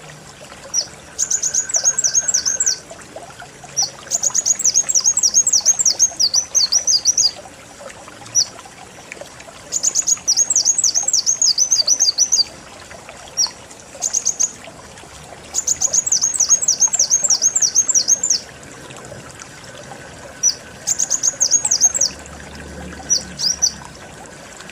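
Kolibri wulung sunbird singing: bouts of rapid, very high chittering notes, each bout lasting one to three seconds with short pauses between, about eight bouts in all.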